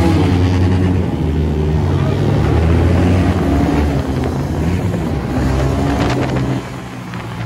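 TVS Raider 125 motorcycle's single-cylinder engine pulling under throttle as the bike accelerates, its note rising in pitch. About six and a half seconds in the throttle eases off and it goes quieter.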